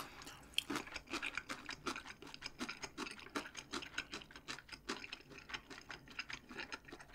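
Chewing close to the microphone: a fast, irregular run of small, faint clicks from the mouth.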